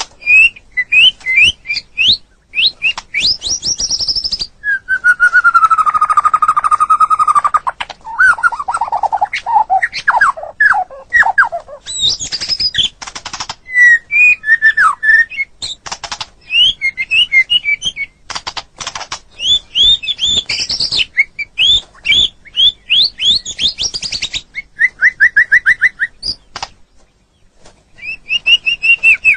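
White-rumped shama (murai batu) singing its varied, loud song: quick series of repeated chirping notes, a long whistle about five seconds in, falling slurred notes, and more rapid trills, with short pauses between phrases.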